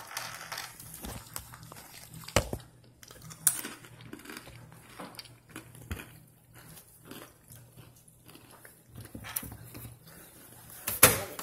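Pretzels being chewed and crunched, with scattered sharp crunches; the loudest comes near the end.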